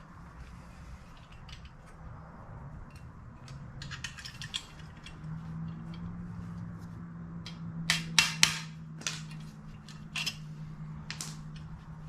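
Small metal parts clicking and tapping as they are handled and fitted together by hand, with a quick run of louder clicks about eight seconds in, over a steady low hum.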